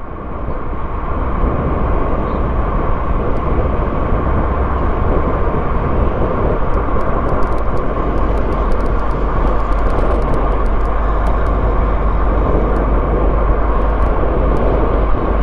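Car driving, steady engine and road noise as heard from inside the cabin, fading in over the first second. Faint, scattered high ticks sit over the low rumble in the second half.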